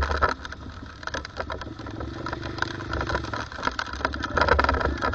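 Small 110cc single-cylinder four-stroke pit bike engine running at a steady pitch as the bike is ridden, over a steady low rumble.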